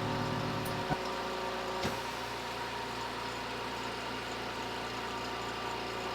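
Background music fading out within the first second, then a steady low hum with two faint clicks.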